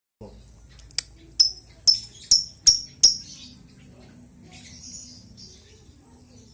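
Lovebird giving a quick run of five sharp, shrill chirps, followed by softer chattering.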